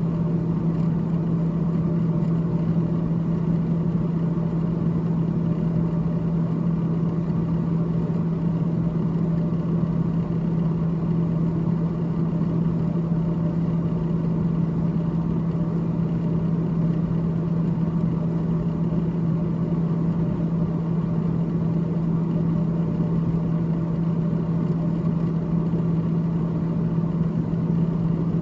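Freezer evaporator fan in a GE GTH18XCTZRBB refrigerator running: a steady low hum over an even whirring noise.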